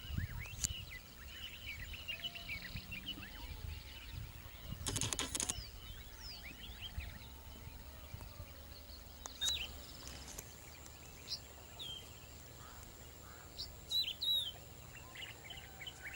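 Birds chirping and calling in many short, quick notes, with a brief rattling burst about five seconds in and a low rumble underneath.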